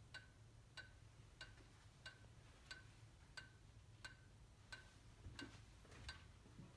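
Steady, evenly spaced ticking from a 2002 Mercedes-Benz C32 AMG with its engine shut off, about one and a half sharp clicks a second, each with a slight ring, over a faint low hum. The cause is unknown to the owner.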